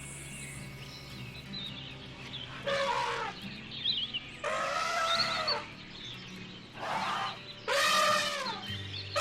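A series of loud drawn-out animal calls, about five of them, each lasting half a second to a second and rising then falling in pitch, over steady background music.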